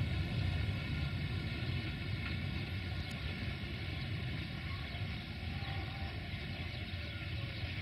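Passenger train rolling away on the rails, its low rumble slowly fading as the last coach recedes.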